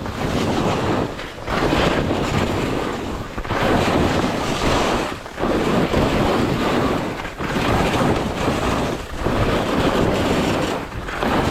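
Skis turning through powder snow with wind buffeting the microphone: a rushing hiss that surges and drops with each turn, about every two seconds.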